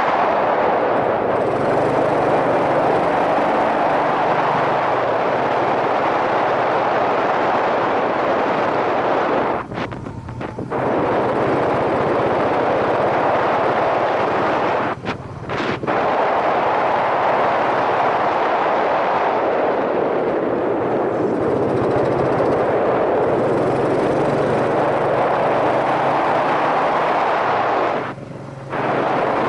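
Wind rushing over a helmet-mounted microphone while a Yamaha SRX400 is ridden, its single-cylinder four-stroke engine running low beneath the wind noise. The rush drops away briefly three times: about ten seconds in, around fifteen seconds, and near the end.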